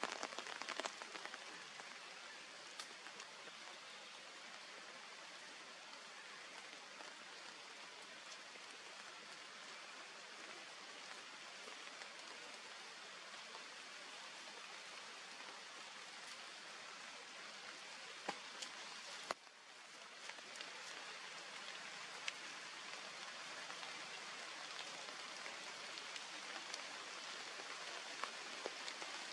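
Steady rain falling, a faint even hiss with scattered small drop ticks; it dips briefly about two-thirds of the way in and resumes slightly louder.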